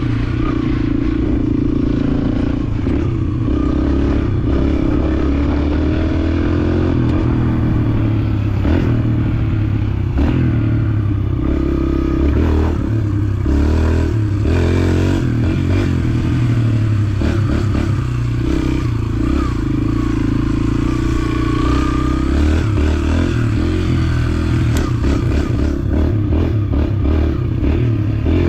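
Dirt bike engine running while riding, its pitch rising and falling with the throttle, with frequent clattering knocks over the engine note.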